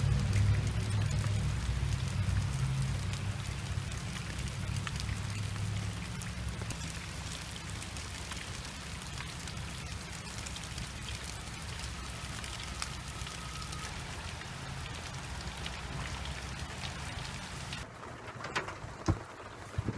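Rain pattering steadily during a rain and wind storm, with a low droning rumble that is loud at first and eases over the first several seconds. Near the end the sound changes abruptly and a couple of sharp knocks follow.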